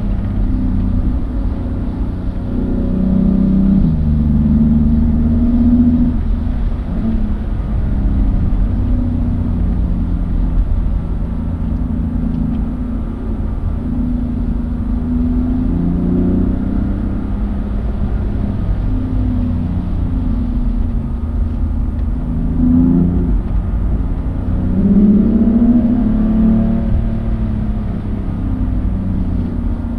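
Car engine at speed, heard from on board, its revs rising and falling again and again with throttle and gear changes over a steady low rumble.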